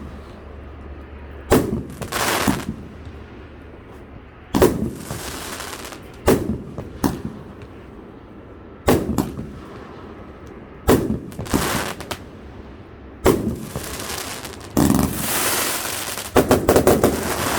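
A 259-shot consumer firework cake going off. Sharp reports come about every two seconds, mostly in pairs, many followed by a crackling hiss. Near the end they give way to a rapid volley of shots.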